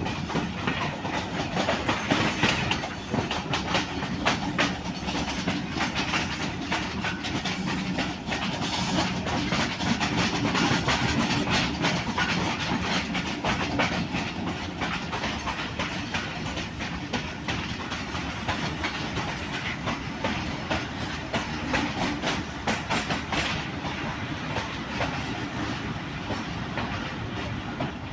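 Passenger train running at speed: the coach's wheels give a continuous rumble and rattle, with frequent clicks as they pass over the rail joints.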